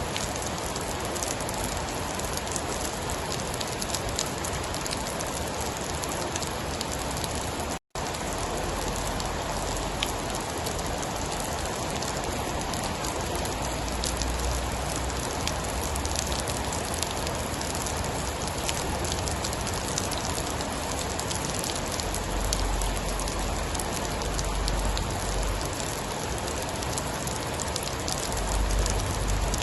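Steady heavy rain, a dense hiss speckled with sharp drop ticks, with a low rumble swelling in and out in the second half. The sound drops out for an instant about eight seconds in.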